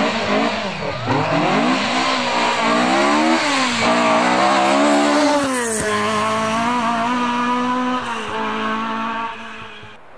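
Rally car engine at full throttle, its pitch climbing and dropping sharply with quick gear changes, then held high and steady before fading away near the end.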